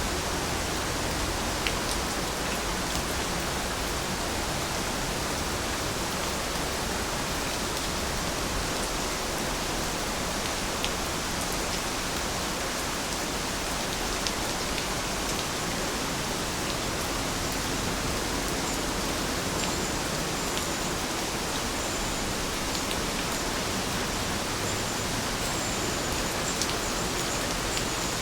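Steady rain falling, an even dense hiss with occasional single drop ticks.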